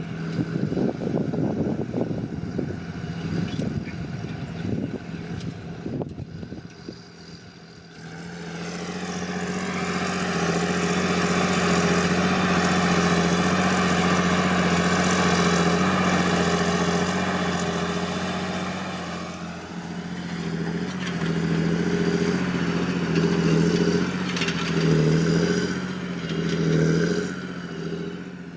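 John Deere 8520T tracked tractor's 8.1-litre PowerTech six-cylinder diesel working under plough load. A rough, uneven rumble at first, then about eight seconds in the engine comes up loud and rises in pitch, holds a steady note for about ten seconds, and near the end wavers with a few surges.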